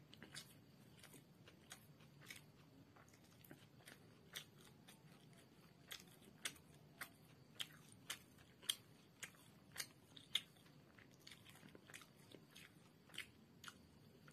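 Quiet close-up chewing of a mouthful of chicken chow mein, with short sharp crunches about twice a second, loudest around the middle.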